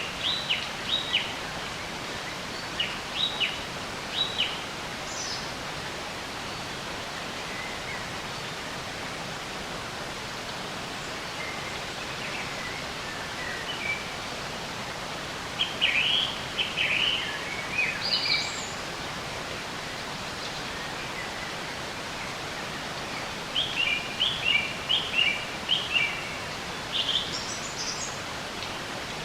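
Songbirds chirping in short groups of quick high calls: a few near the start, a cluster about halfway through, and a longer run near the end. Under them is a steady, even hiss of nature ambience.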